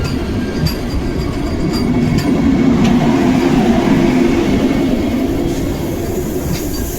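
Amrit Bharat Express train running along the track: a steady low rumble of the wheels with a few sharp clacks, growing a little louder midway.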